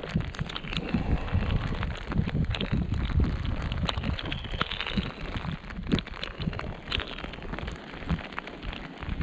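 Rain pattering on the camera and a waterproof jacket: many irregular sharp ticks, over uneven low thumps and rustling as the rod and reel are handled.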